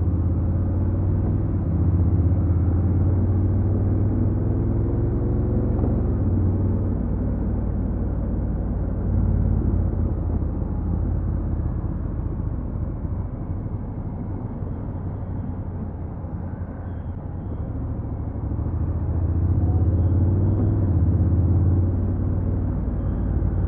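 Honda NC750X's parallel-twin engine running as the motorcycle rides along, a steady low drone that is louder and rising in pitch for the first several seconds, eases off through the middle, and pulls louder again about twenty seconds in.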